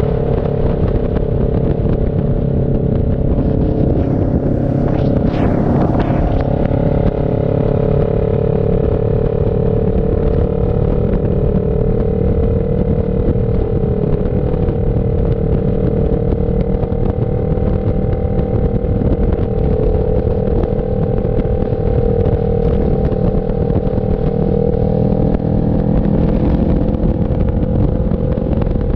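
CFMoto NK400 two-cylinder engine running at a steady, nearly constant speed, with a brief swell of noise about five seconds in.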